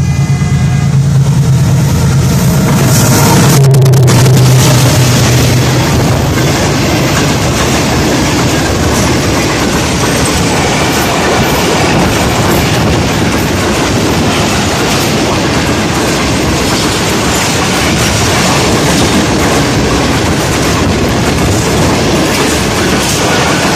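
Passenger train passing close at speed: the diesel locomotive's engine goes by loudly in the first few seconds, loudest about four seconds in. Then come the steady rumble and clatter of the coaches' wheels rolling over the rails.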